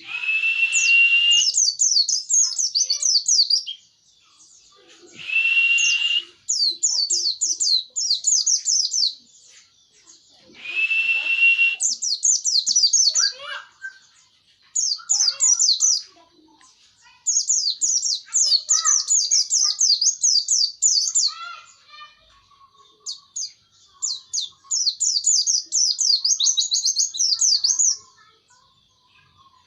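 Pleci (white-eye) singing in rapid, high chattering phrases of a few seconds each, with short pauses between. Three times, a steady, slightly rising whistle-like note sounds at the start of a phrase.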